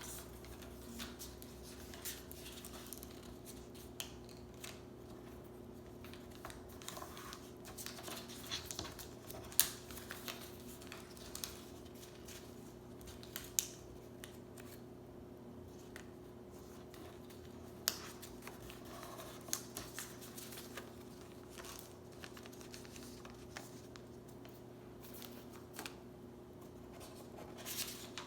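A sheet of paper being folded by hand into a paper airplane, with scattered crinkles, rustles and sharp creasing clicks at irregular moments. A faint steady hum runs underneath.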